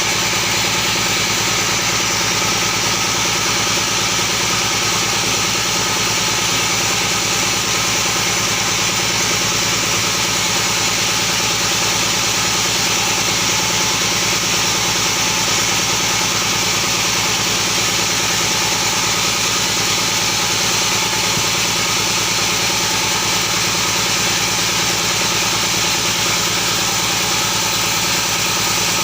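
A motor running steadily at a constant speed, with a dense hiss over it and no change in pitch or level.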